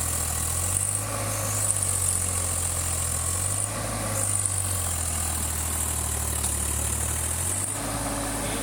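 Tractor engine running with a steady low hum, its pitch shifting a few times and settling lower near the end.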